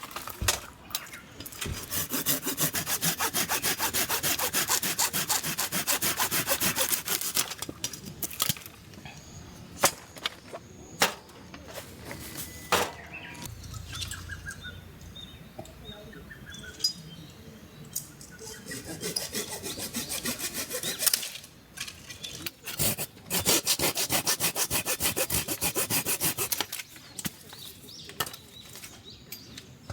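Hand saw cutting firewood in three bouts of rapid back-and-forth strokes, with pauses and a few sharp wooden knocks between them.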